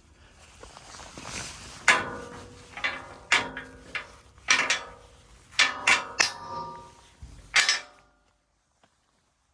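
A run of sharp metallic clanks, about seven over six seconds at an uneven pace, each ringing briefly, then cutting off suddenly.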